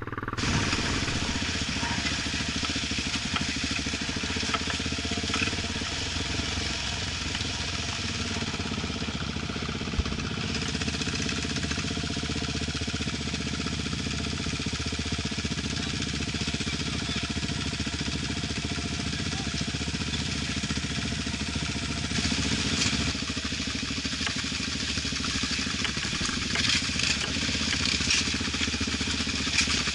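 Off-road motorcycle engine running steadily.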